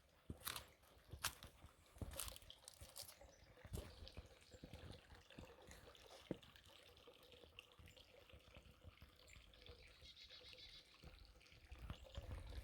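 Faint trickle of a creek's running water, with a few light clicks in the first few seconds.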